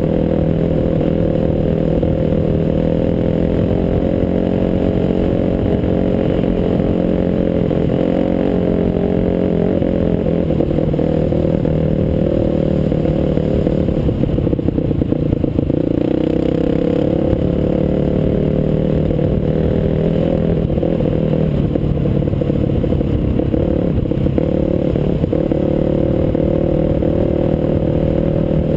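Off-road trail motorcycle engine running steadily while riding, with clattering from the bike over rough ground. About halfway through the engine note drops and wavers, then steadies again.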